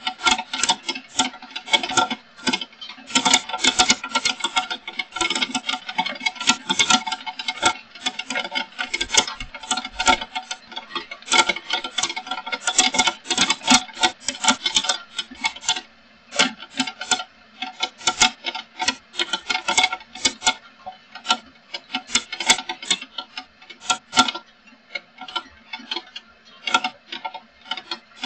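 Heavy rain: dense, irregular drops ticking and pattering on a hard, ringing surface, with small lulls now and then.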